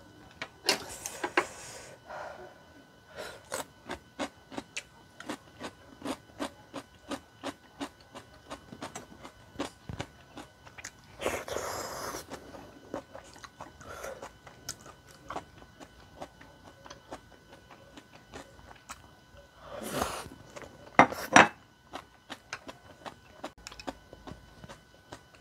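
Close-miked eating sounds of a person chewing tteokbokki: a steady run of wet mouth clicks and smacks. There is a longer slurp about eleven seconds in, as sauce is sipped from a small plate, and two louder mouth noises around twenty seconds in.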